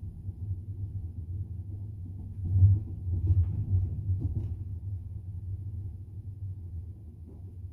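Wheels of a double-decker passenger train running on the rails, heard from inside the carriage as a steady low rumble, with a run of louder knocks about halfway through as the wheels pass over rail joints.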